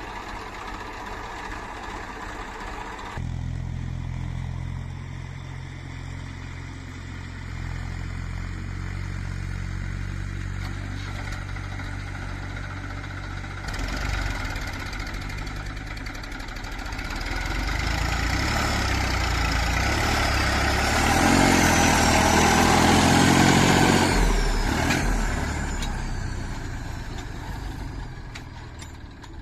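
Diesel engine of a JCB 3DX backhoe loader running. Its note changes about three seconds in, then rises and grows louder through the second half before easing off near the end.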